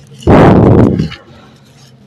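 Dry, stony sand-cement texture crushed close to the microphone: one loud, crunchy crumble about a quarter second in, lasting under a second.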